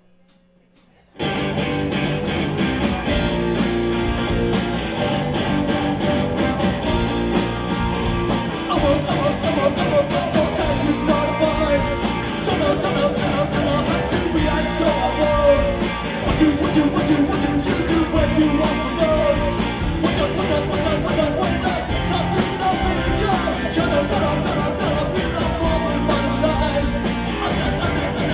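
Live rock band kicking into a cover song: after a brief hush, the full band comes in suddenly about a second in and keeps playing loudly, with electric guitars and drums.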